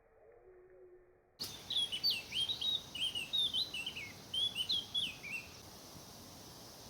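A small songbird singing a fast run of short, varied chirping notes that slide in pitch. The song starts abruptly about a second and a half in, after a quiet muffled stretch, and stops a little over five seconds in, leaving a steady hiss.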